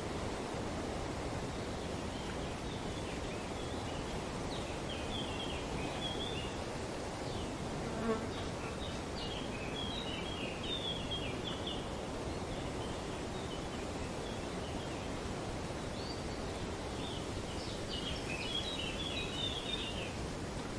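Birds chattering in quick high clusters of short calls over a steady rustle of wind in the trees, with a brief, louder lower-pitched call about eight seconds in.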